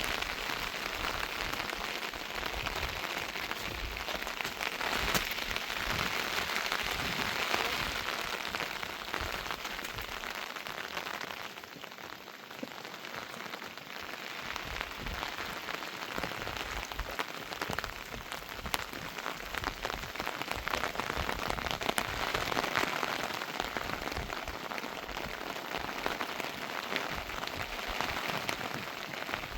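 Steady rain falling, with many drops ticking; it eases briefly about twelve seconds in.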